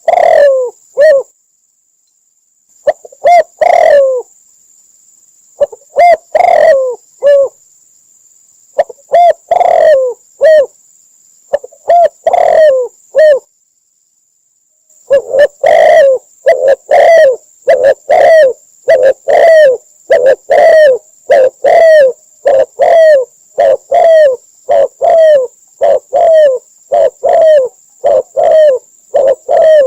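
Spotted dove cooing: loud, repeated low coo notes, at first in short phrases separated by pauses. About halfway through they become an unbroken series of a little more than one coo a second. A faint steady high whine runs behind the calls.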